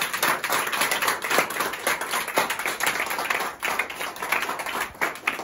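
A group of people clapping their hands, a dense run of claps.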